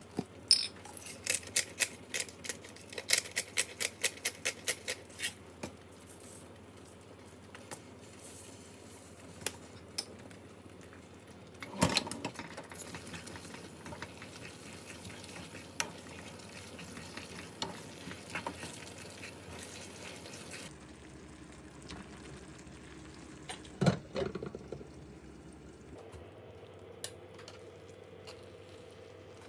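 Kitchen cooking sounds: a utensil tapping a run of quick strikes against cookware, then a clank and a steady sizzle of food frying in a pan, and another clank later on.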